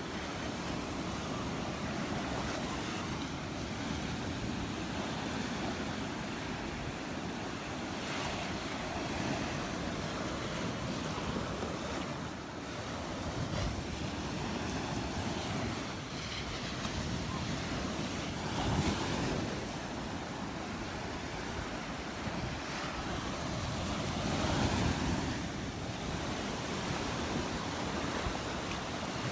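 Gulf surf washing onto the beach in an even rush, swelling louder a few times as waves break, with wind buffeting the microphone.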